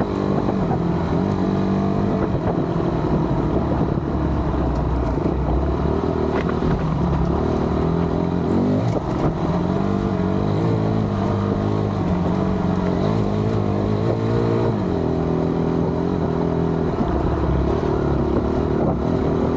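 Honda dirt bike engine running under way, the revs rising and falling as it rides.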